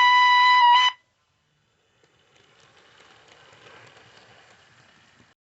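A loud, steady high whistle cuts off sharply about a second in. After a short silence, the faint, even running noise of the model locomotive on its track.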